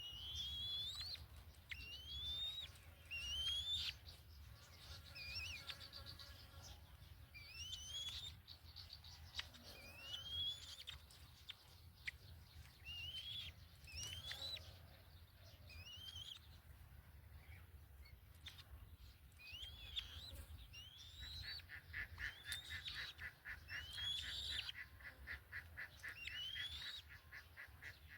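Birds calling: short upward-sliding whistles repeated irregularly every second or two, joined about three-quarters of the way through by a fast, even chattering trill.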